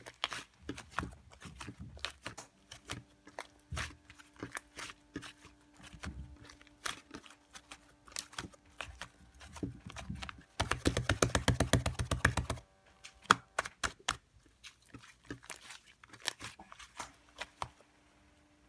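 Sticky clicks and small pops of syrup-topped liquid slime being pressed and squished by hand, with a fast run of wet clicks for about two seconds midway.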